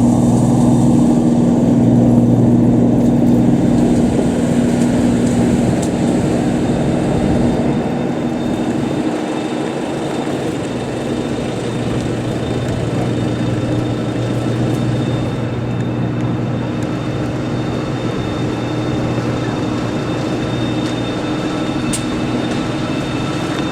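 Steady mechanical drone of a parked Airbus A320 with its engines not yet started, with a few steady low hum tones: the kind of sound an airliner's APU and air-conditioning make at the gate. It starts abruptly and eases off a little partway through.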